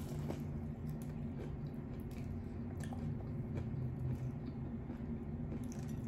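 A person chewing food: soft, scattered mouth clicks over a steady low hum.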